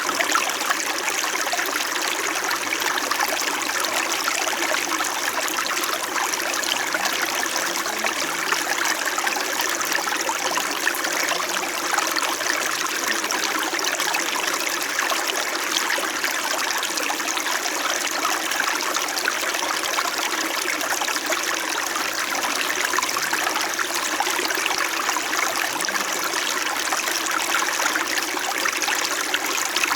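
Small winter mountain stream flowing and babbling over rocks: a steady, even rush of water with a gentle trickle.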